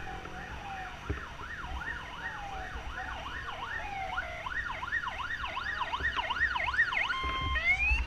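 Emergency vehicle siren: a slow wail gives way to a fast up-and-down yelp, about three sweeps a second, that grows louder as the vehicle approaches. Near the end it switches to a short held tone and then a rising whoop.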